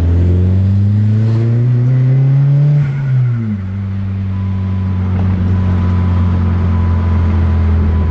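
Dodge Neon SRT-4's turbocharged 2.4-litre four-cylinder engine under way, running and boosting normally again. Its pitch rises steadily for about three seconds, drops sharply, then holds steady at a lower pitch.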